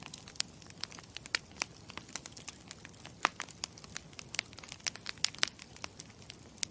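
Campfire crackling: many irregular pops and snaps of burning wood over a low steady rumble, cutting in abruptly.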